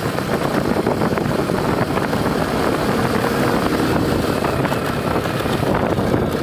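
A TVS motorcycle's small single-cylinder engine running steadily while riding along a dirt road, mixed with wind noise on the microphone.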